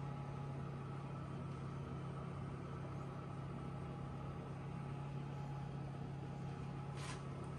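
Steady low mechanical hum, like a motor or fan running, with a short hiss about seven seconds in.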